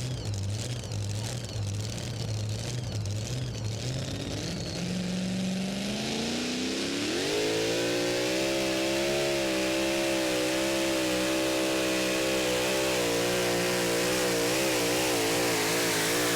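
Super modified two-wheel-drive pulling truck's engine idling with a lumpy, pulsing note, then revving up about five seconds in and held at full throttle down the track. Its pitch wavers more and more toward the end.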